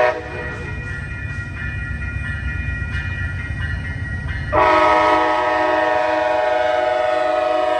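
Amtrak passenger train led by a Siemens ALC-42 Charger locomotive rumbling past. About four and a half seconds in, the locomotive's horn sounds a long, loud chord that holds to the end.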